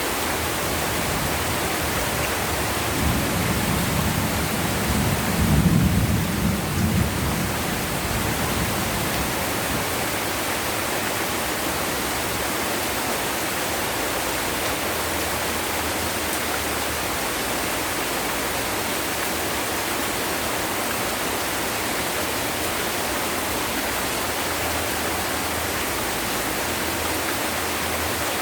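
Heavy rain falling steadily, with a low rumble of thunder a few seconds in that swells for about five seconds and then dies away under the rain.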